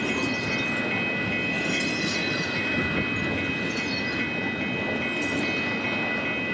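Union Pacific intermodal freight train rolling past: the steady rumble of the cars on the rails, with thin high-pitched steady tones above it.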